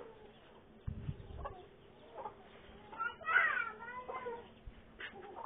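A bird calls once about three seconds in, a short falling cry, among a few faint knocks.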